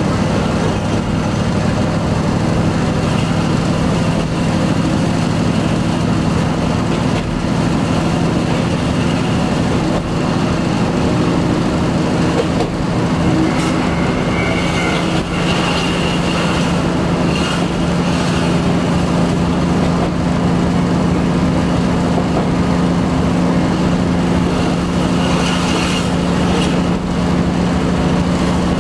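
Diesel railcar running along the line, heard from inside the cab: a steady engine hum with the rumble of the wheels on the rails, and a few brief higher-pitched sounds around halfway and near the end.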